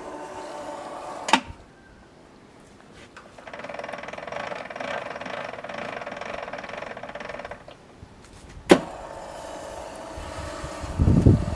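Electric motor of a homemade profile bending machine running steadily for about four seconds in the middle, set between two sharp clicks, with low thumps near the end.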